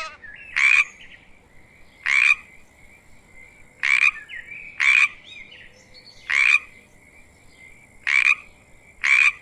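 A frog croaking: seven short, loud, rasping calls, one every one to two seconds, over a faint steady high-pitched background tone.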